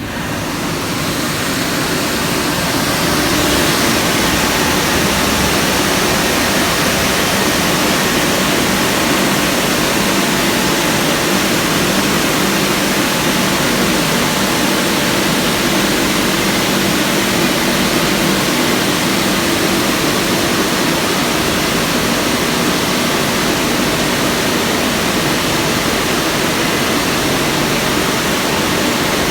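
WashTec SoftCare 2 Pro car wash dryers, the rotary roof jet and side blowers, blasting air over the car as a loud, steady roar, heard from inside the car. It swells over the first few seconds as the blowers come up to full power, then holds even.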